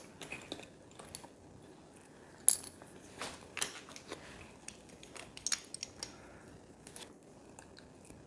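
Plastic Lego pieces clicking and rattling as they are handled and picked through, a scatter of small sharp clicks with the loudest one about two and a half seconds in.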